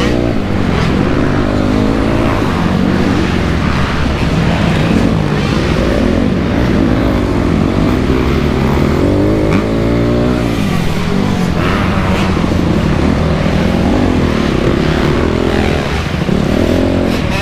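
2008 Honda CRF250R dirt bike's four-stroke single-cylinder engine under way, revving up and down: the pitch repeatedly rises and falls with throttle and gear changes.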